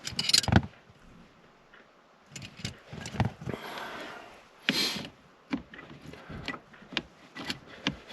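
Hands working plastic parts and wiring behind a car dashboard: a string of small clicks and knocks with brief scraping and rustling, as a connector is worked off a switch.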